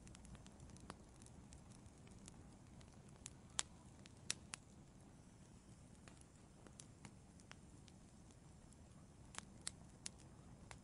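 Wood fire in an outdoor fireplace crackling softly: irregular sharp pops over a low, steady rumble, with the loudest snaps a little under four seconds in and again shortly after.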